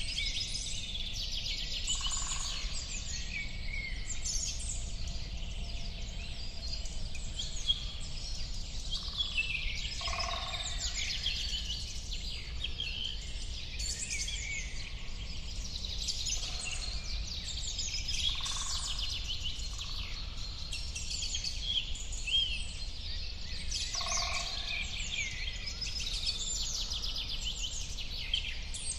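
A dense chorus of many small birds chirping and trilling at once, with a few lower calls every several seconds over a steady low background rumble.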